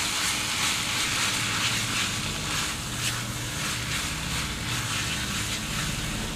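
Grated paneer and onion-tomato masala frying in a kadhai, a steady sizzle, with a spatula stirring and scraping it round the pan.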